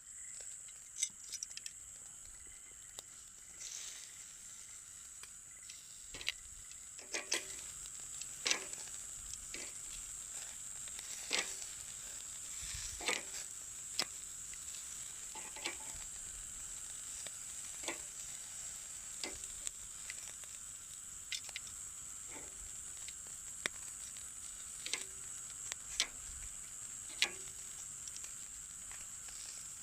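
Meat sizzling on a grill over a wood campfire: a steady high hiss, broken by sharp pops and crackles every second or two.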